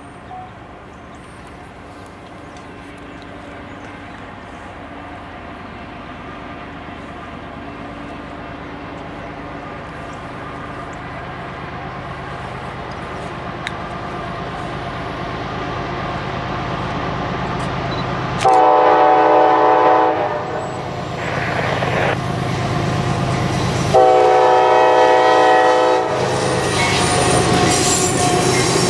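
Approaching CSX freight train with five diesel locomotives: a steady engine rumble that grows louder as the train comes closer. Two long blasts of the locomotive's air horn, a chord of several tones, start suddenly about two-thirds of the way in and again near the end, as the lead locomotives draw near.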